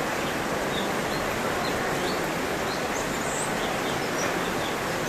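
Cucak cungkok songbird giving short, high chirps, scattered every fraction of a second, over a dense, steady background hiss.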